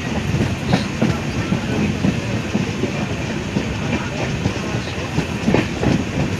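Passenger train running along the track: a steady rumble with irregular wheel clicks and knocks over the rail joints.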